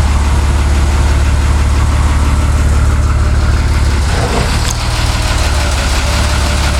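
Yamaha DX33 engine idling steadily after starting, a constant low hum with rapid, even firing pulses.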